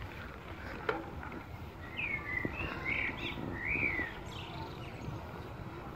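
Birds chirping: a run of short rising-and-falling calls from about two to four seconds in, over a low steady rumble. A single faint click comes just before the first second.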